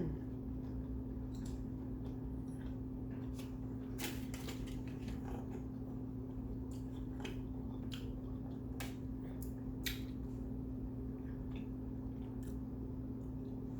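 Person chewing kimbap, with scattered wet mouth clicks and smacks, clustered between about four and ten seconds in, over a steady low electrical hum.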